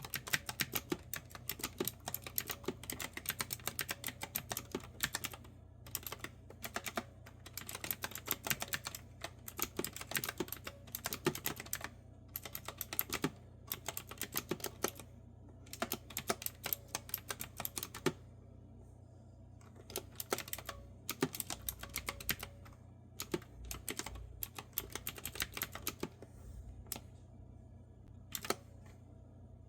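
Typing on a clicky retro-style keyboard with round circle keys: quick runs of crisp keystrokes in bursts with short pauses, slowing after the middle to a few scattered single clicks near the end.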